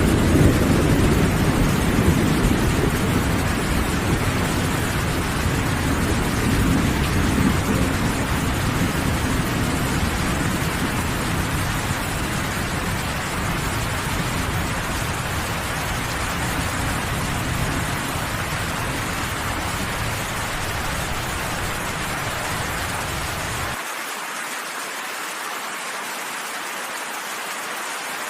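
Steady heavy rain with a low rolling thunder rumble underneath that slowly fades. About 24 seconds in, the rumble cuts off abruptly, leaving only the hiss of the rain.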